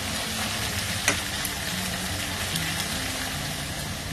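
Spiced mutton liver and oil sizzling steadily in a steel pan just off the finish of frying, with one light tap about a second in.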